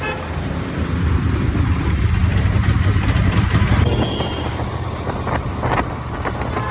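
Motorcycle riding along a highway: steady engine and road rumble, heavier from about a second in until about four seconds in.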